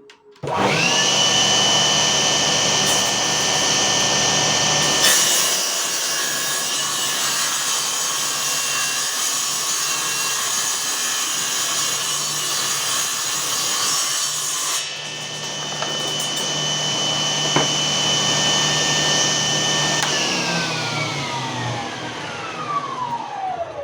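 A 997 DC motor on 24 V spinning a 7-inch 24-tooth circular saw blade: it starts with a rising whine that settles to a steady high pitch. From about five seconds in, a rough grinding rasp is added as the blade cuts a workpiece for some ten seconds, then it runs free again. Near the end the power is cut and the whine falls away as the blade spins down.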